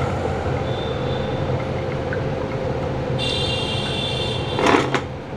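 Chopped garlic and ginger frying in a little hot oil in a frying pan, under a steady low rumble. A high ringing tone comes in about three seconds in and lasts nearly two seconds, with a short sharp scrape near the end.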